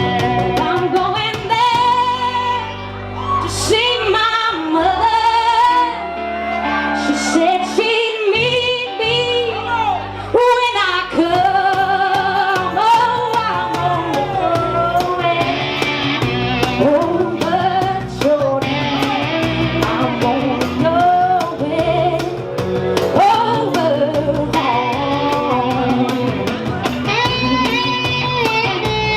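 Live band performing a song: a woman sings lead over electric guitar, bass and a steady drum beat, with the guitar coming forward near the end.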